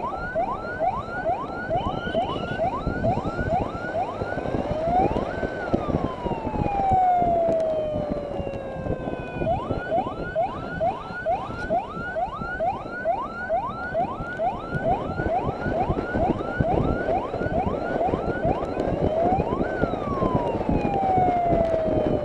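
Six-tone electronic escort siren yelping in fast rising sweeps, about two and a half a second. About five seconds in and again near the end it breaks into a single long falling wail lasting about four seconds. Under it runs a steady rushing noise of wind and road from the ride.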